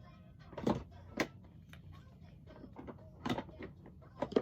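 A few sharp knocks and clacks, about four, spread unevenly over a low steady hum, like small hard objects being set down or handled.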